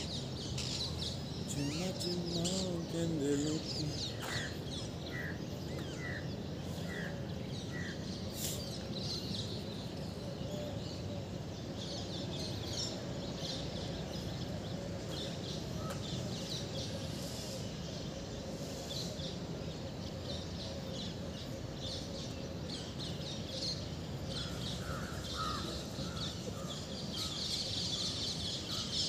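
Birds chirping and calling over a steady background hum. A run of about six evenly spaced call notes comes a few seconds in, and more calls follow near the end.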